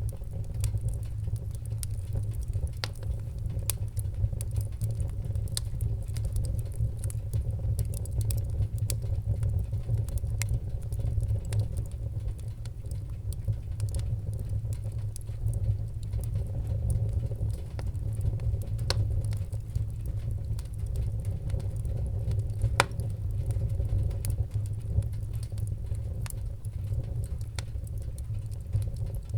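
Wood fire crackling in a fireplace: a steady low rumble of the flames with scattered sharp pops and crackles at irregular moments.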